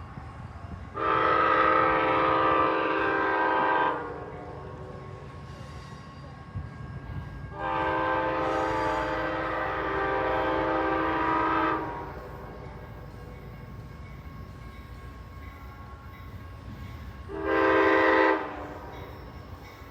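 Amtrak diesel locomotive's air horn sounding a chord in two long blasts and then a short one, the opening of the long-long-short-long grade-crossing signal. Under it runs the steady low rumble of the passing train.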